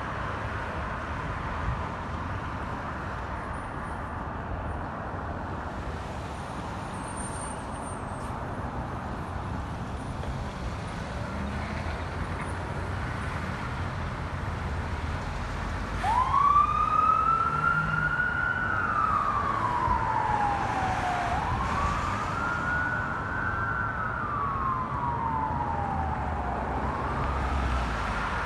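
Wind and road noise, then about halfway through a fire apparatus siren starts up in a wail, its pitch rising quickly and falling slowly in cycles of about five seconds.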